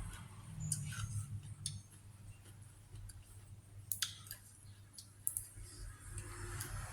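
A person eating close to the microphone: scattered mouth clicks and smacks of chewing, with a few sharper ones around a second in, near the middle and about two-thirds of the way through.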